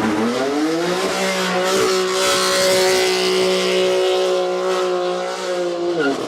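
A sports car's engine and exhaust rising in pitch over the first second, then held at steady high revs for several seconds. The pitch falls away just before the end.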